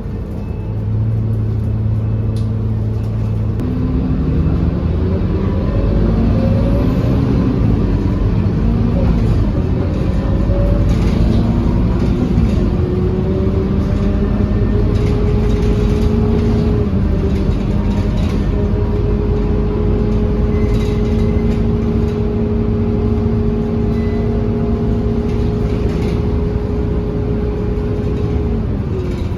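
Scania K230UB city bus diesel engine pulling away and accelerating, its note rising in steps through the gear changes. It then holds a steady note at cruising speed and drops off near the end.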